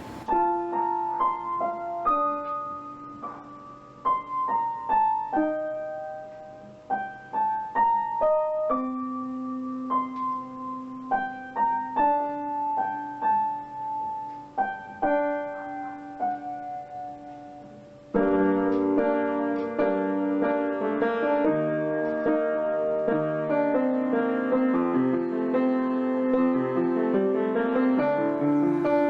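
Solo piano music: a slow melody of single notes, each ringing and fading, that turns into a fuller, louder run of flowing chords about two-thirds of the way through.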